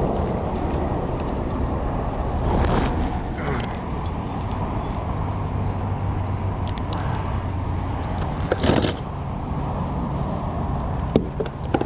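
Steady rushing noise, with a few short knocks and clicks about three seconds in, near nine seconds and near the end.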